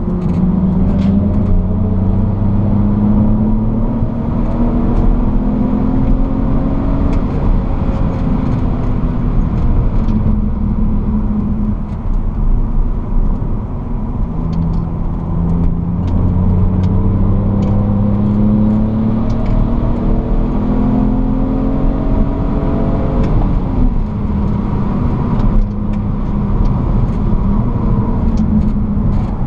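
BMW E46 330Ci's straight-six engine, heard from inside the cabin, pulling up through the revs in two long climbs, the first falling away about a quarter of the way in and the second about three quarters of the way in, over steady tyre and road roar.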